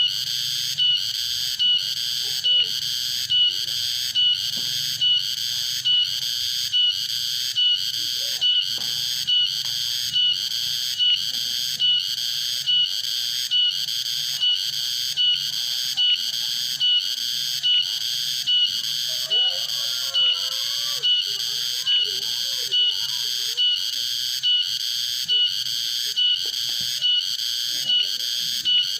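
Cicadas calling: a continuous high-pitched buzz that swells in a regular pulse about three times every two seconds.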